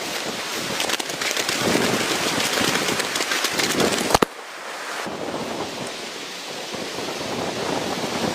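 Heavy rain pattering: a dense mass of fine ticks over a steady hiss. A single sharp crack comes about four seconds in, and the sound is quieter after it.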